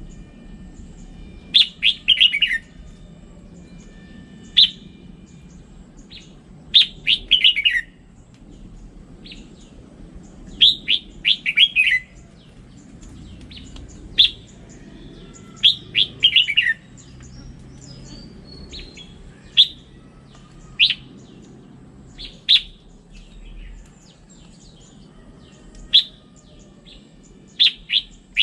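Red-whiskered bulbul singing: short phrases of a few quick notes, many sliding down in pitch, repeated every couple of seconds, over a faint low hum.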